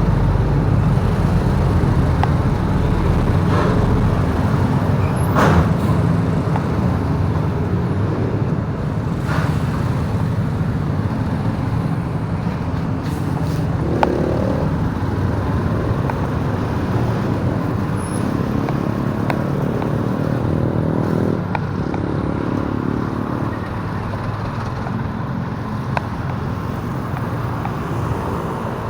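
Motorbike on the road: its engine running steadily under heavy wind and road noise, with engine notes rising and falling in the middle.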